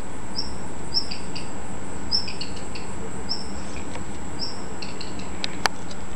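Small birds calling: a short, high note repeated about once a second, with softer chirps in between. A single sharp click comes near the end.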